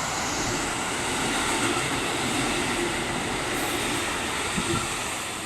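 KiHa 85 series diesel railcar passing through a station without stopping: steady rail and wheel noise with its diesel engine running, easing off near the end as it goes by.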